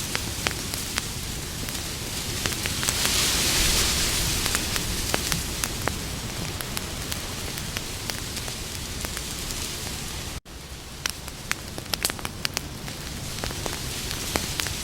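Campfire burning with a steady hiss and many sharp crackles and pops. The hiss swells briefly about three seconds in. The sound cuts out completely for an instant a little past ten seconds.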